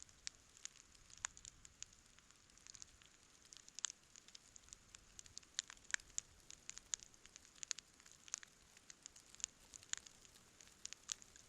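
Wood campfire crackling: irregular sharp pops and snaps, several a second, some louder than others, over a faint hiss.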